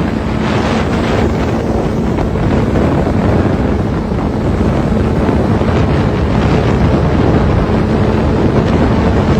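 Motorcycle riding at a steady speed, its engine a constant drone beneath heavy wind buffeting on the microphone.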